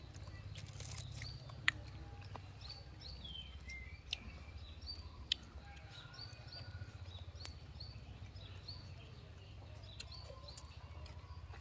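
Small birds chirping in the background, short high notes repeated many times with now and then a falling call, over a low steady rumble. A few sharp clicks stand out, the loudest about a second and a half in.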